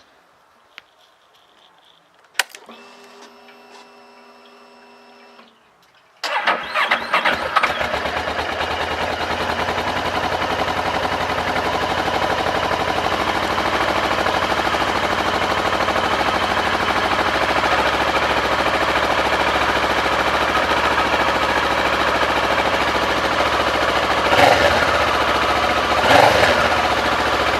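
Kawasaki ER6 649 cc parallel-twin engine being started: a click and a few seconds of steady electric whine, then the engine catches about six seconds in and settles into a steady run. Near the end it is revved briefly twice.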